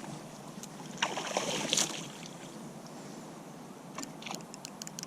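Steady rush of river water with rustling of clothing and tackle while a barbel is being played on the rod. About four seconds in, a quick run of light ticks begins, roughly four a second.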